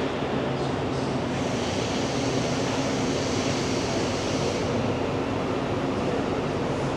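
Steady rumble of a Brightline passenger train, with a low hum running through it; a hiss swells in for a few seconds in the middle.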